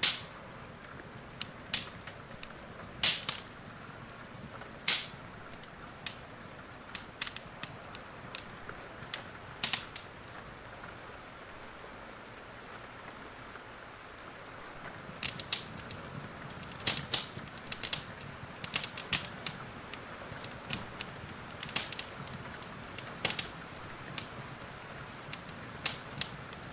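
Wood fire crackling with irregular sharp pops over a steady hiss of rain. The pops are sparse at first, pause briefly mid-way, and come more often in the second half.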